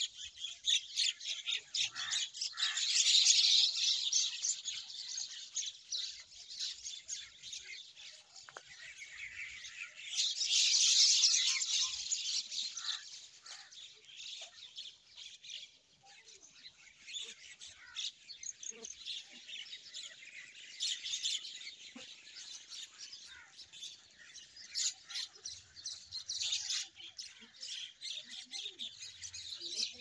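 A flock of small birds chirping and chattering nonstop, many short calls overlapping, with louder swells of dense calling about three seconds in and again around ten to twelve seconds in.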